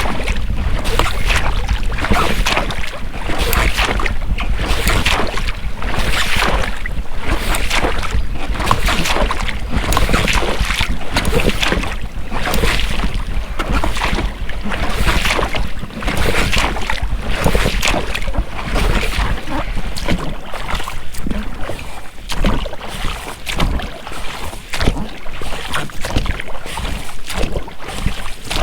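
Oars of an inflatable rowboat dipping and splashing in repeated strokes, with the rubber rowlocks creaking. Wind on the microphone adds a steady low rumble.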